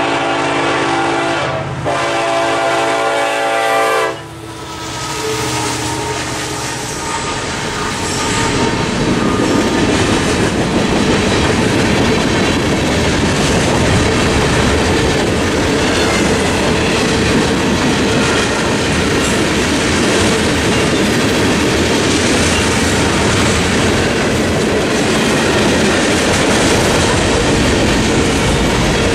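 A Norfolk Southern freight locomotive's horn sounds at the crossing, with a brief break, and stops about four seconds in. Then the freight train's cars roll steadily past, with the clickety-clack of wheels on the rails.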